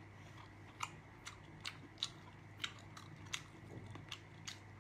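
Close-miked mouth chewing seafood, quiet, with about eight short wet clicks and smacks at irregular intervals over a faint low hum.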